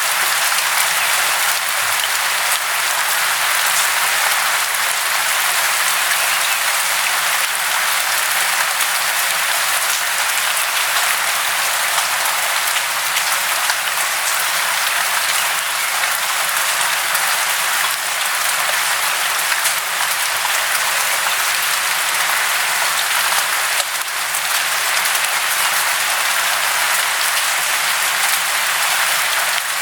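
Steady, unbroken hiss of falling water, even in level throughout, with little low rumble.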